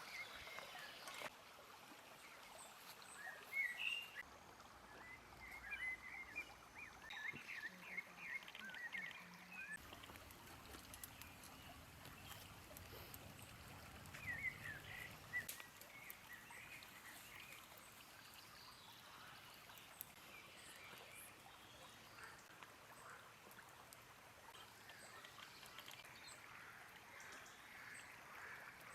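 Faint outdoor ambience: birds chirping off and on through the first half, over a soft steady hiss.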